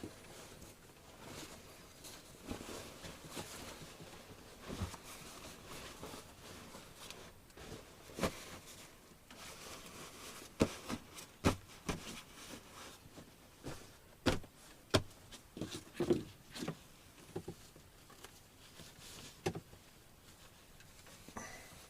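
Irregular knocks, clicks and rustling of someone handling things and moving about in a small room, with most of the knocks in a cluster past the middle.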